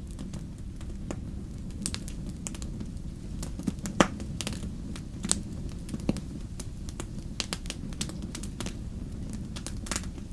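Fire crackling in a fireplace: irregular snaps and pops over a steady low rumble, the loudest pop about four seconds in.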